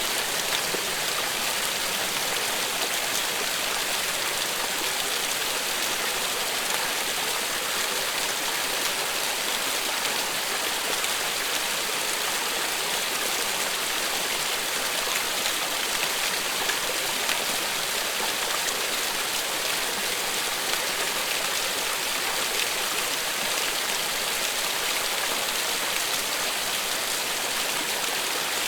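Steady, continuous rain falling, an even hiss with fine pattering of drops that never lets up.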